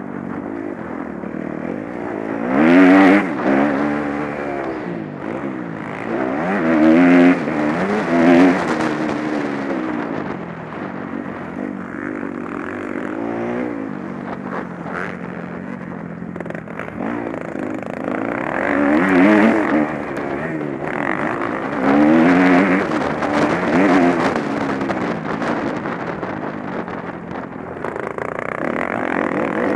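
Motocross motorcycle engines revving hard and passing, their pitch climbing and dropping again and again, with the loudest passes about 3, 7 to 8, 19 and 22 seconds in.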